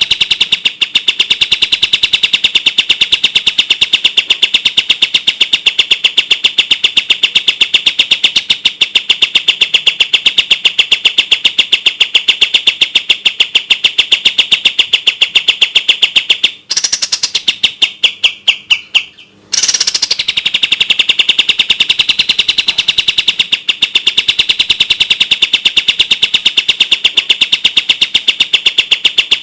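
Kapas tembak bird singing a fast, tightly packed trill of high notes. About 17 s in it breaks for a couple of seconds of separate, falling notes, then the rapid trill resumes.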